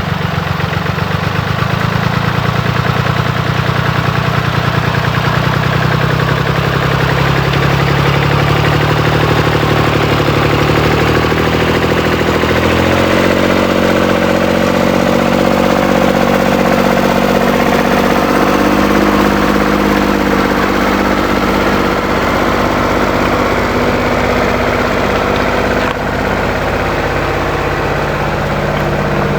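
An engine running steadily at idle; its note changes about thirteen seconds in and then holds steady.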